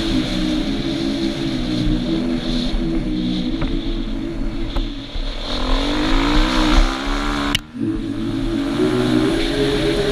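KTM 350 EXC-F's single-cylinder four-stroke engine running under way on an off-road ride. Its pitch climbs as it revs up about halfway through, drops sharply for a moment, then picks up and climbs again.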